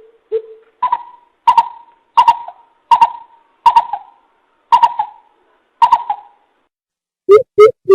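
Coucal (bìm bịp) calls from a trapping lure recording: a slow series of single pitched notes, a little under one a second. Near the end comes a faster run of lower notes, about three a second.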